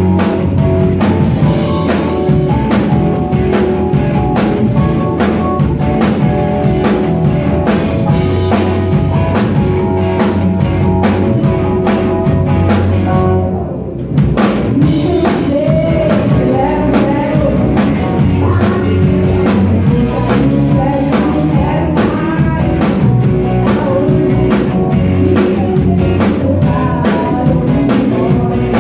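Live rock band playing, with a drum kit and guitar and a voice singing. The music drops out briefly about halfway through, then comes back in.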